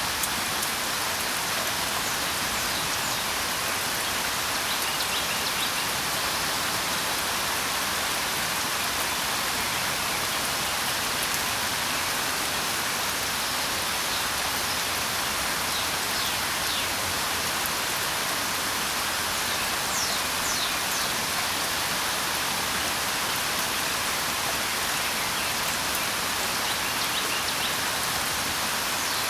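Steady rainfall, an even hiss of falling drops, with faint brief bird chirps now and then.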